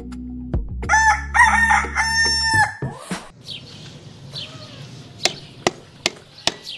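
A rooster crowing once: a cock-a-doodle-doo of a few short broken notes and a long held last note that drops at the end, over background music that stops just after it. Near the end there are a few sharp taps.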